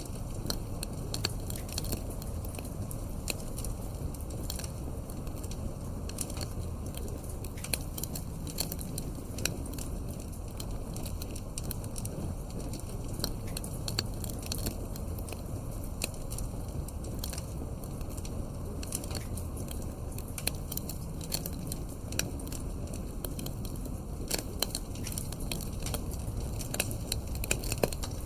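Wood fire burning in a fireplace: irregular sharp pops and snaps over a steady low rumble of flame, with a few louder pops near the end.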